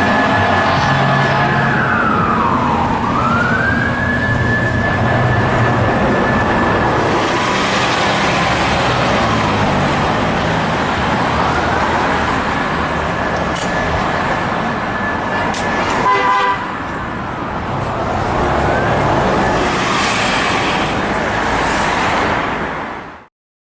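Fire-truck siren wailing, winding slowly up, holding high and falling again several times, over the rumble of the trucks' engines. A short horn blast comes about sixteen seconds in, and the sound cuts off abruptly just before the end.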